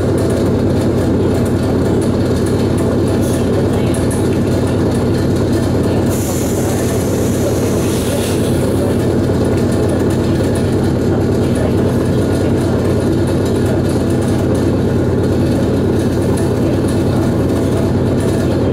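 ET2M electric multiple unit heard from on board: a steady, loud rumble and hum of the train. A brief high hiss rises about six seconds in and fades out a couple of seconds later.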